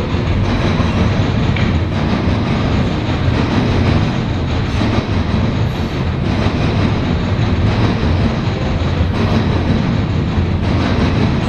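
CSX freight train cars rolling past, a steady heavy rumble with wheels clacking over the rail joints.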